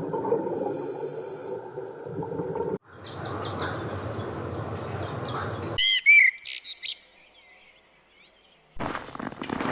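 Short animal-sound clips spliced one after another, with abrupt cuts between them. The loudest is a run of bird chirps about six seconds in.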